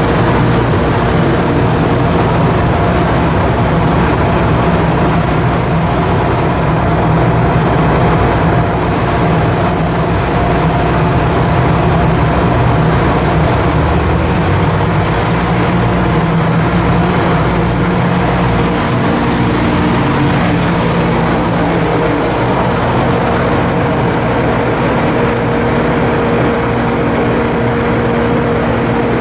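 Ship's diesel engine machinery running steadily under way: a loud, constant drone with several steady hum tones.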